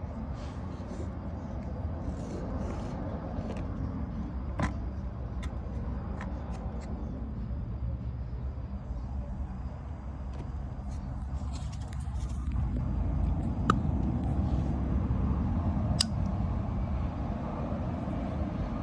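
A few sharp single clicks from the compressor start components of a Vissani HVBC31ST beverage cooler, one about a quarter of the way in and two more later, over a steady low rumble. The clicking shows power is reaching a compressor that will not run, which points to either a bad start device or a bad compressor.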